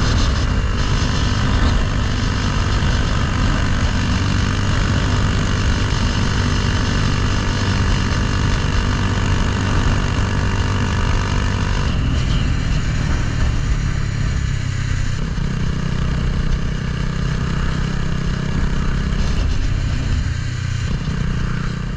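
Honda Grom mini bike with a swapped-in CBR300R single-cylinder engine running steadily while riding, with heavy wind noise. About twelve seconds in the wind noise drops off and the engine note shifts, and it changes again a few seconds later.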